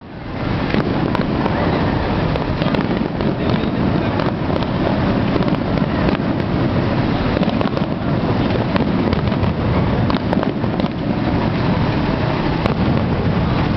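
Fireworks finale barrage: a dense, unbroken din of many overlapping shell bursts, scattered with sharp crackles.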